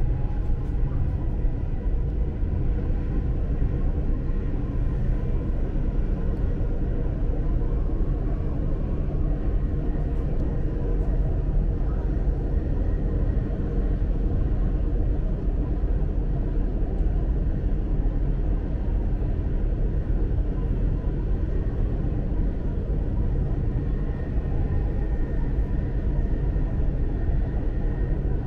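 Dubai Metro train running between stations, heard from inside the carriage: a steady low rumble with a faint steady whine over it.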